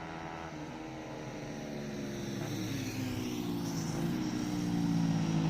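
Road traffic on a nearby main road: a vehicle's engine droning, growing steadily louder as it approaches.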